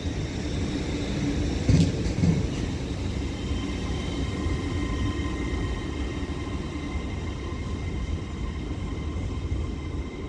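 Hitachi class 802 bi-mode train pulling out of a station platform: a steady low rumble with a steady whine from the traction equipment coming in after a few seconds, and a single knock about two seconds in.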